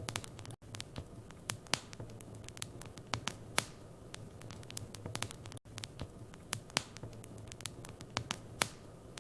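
Wood fire crackling in a fireplace: irregular sharp pops and snaps over a steady low hum and soft hiss. The sound cuts out for an instant twice, about half a second in and just past the middle.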